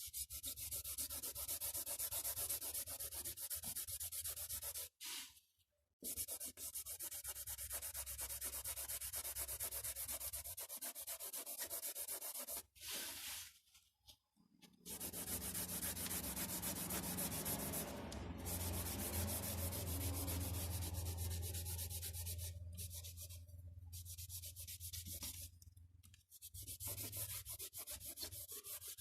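Pencil or pastel rubbing on paper in long stretches of steady back-and-forth shading strokes. There are brief pauses about five seconds in, at six seconds, and around thirteen to fourteen seconds.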